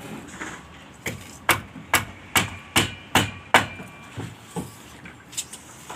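A hammer striking repeatedly, a run of seven loud blows at about two and a half a second, then a few lighter, more spaced taps.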